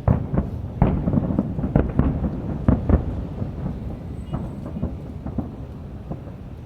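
Aerial fireworks bursting: a quick run of booms and cracks with rolling echoes over the first three seconds, thinning to scattered bangs over a low rumble.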